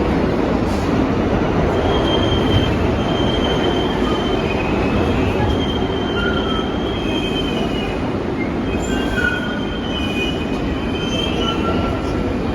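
Bombardier R62A subway train running through the station with a loud steady rumble, its wheels squealing in thin, wavering high tones that come and go over several seconds.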